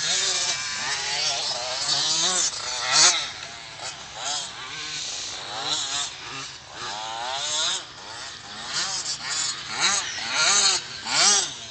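Two-stroke engine of a 2002 KTM SX 250 motocross bike being revved again and again, its pitch rising and falling in quick throttle blips.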